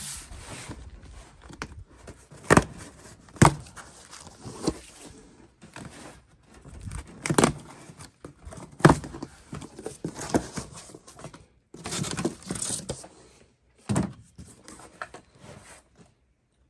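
Work handling noises: an irregular series of sharp knocks and clunks with rustling between them, as objects are moved and set down.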